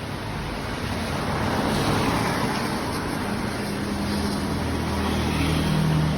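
Steady hiss of light drizzle, growing louder about a second in, with a low hum joining in over the last couple of seconds.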